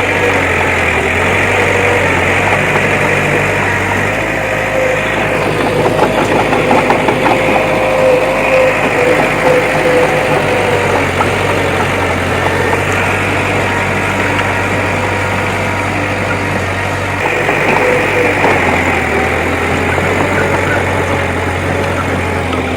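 Heavy diesel earthmoving machine's engine running steadily, with some clattering in the middle.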